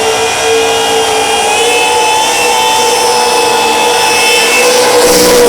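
Supercharged burnout car's engine held at high, nearly steady revs during a burnout, with a brief burst of noise near the end.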